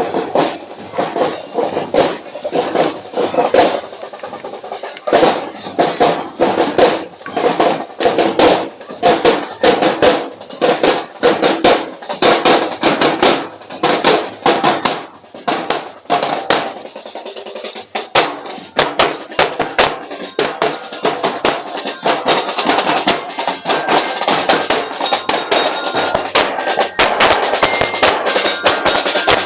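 Loud percussion-driven music for street dancing, with fast, dense drum strikes throughout that grow busier in the second half.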